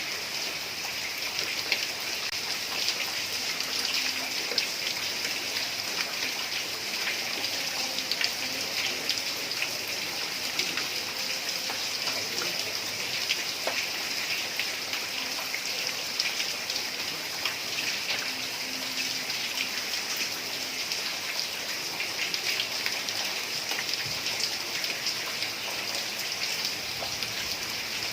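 Heavy rain falling on roof tiles: a steady hiss with many individual drops ticking on the roof.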